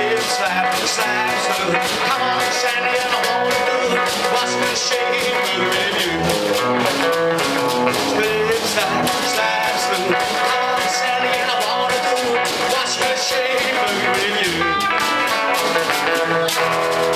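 Blues-flavoured rock-and-roll boogie band playing an instrumental passage: guitar over bass and a steady drum beat, with no singing.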